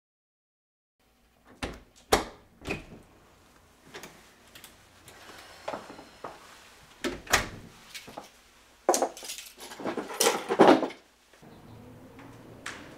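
Dead silence for about a second, then a string of separate clicks, knocks and rattles from objects being handled, the busiest and loudest stretch about two-thirds in.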